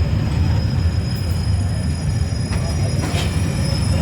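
A train rumbling steadily, with a thin, steady high whine above the rumble.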